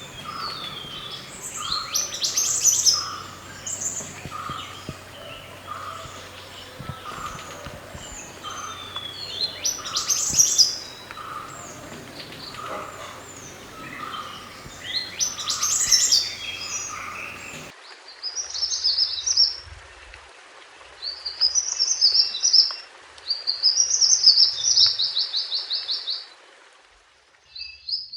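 Songbird song of the bird Indonesians call mantenan gunung: sharp high chirps and quick sweeping notes over a lower note that repeats about twice a second. About two-thirds in, the recording changes to a cleaner one of trilled, chattering phrases.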